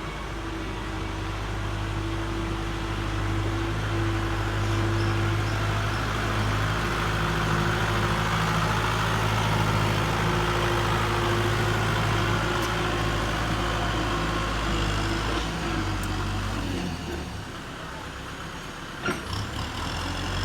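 Kubota tractor's diesel engine running steadily under work, swelling over the first couple of seconds. It eases off about three-quarters of the way through, with a few sharp knocks near the end.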